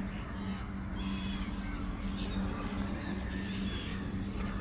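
A large flock of birds calling, with many short calls overlapping one another, over a steady low hum.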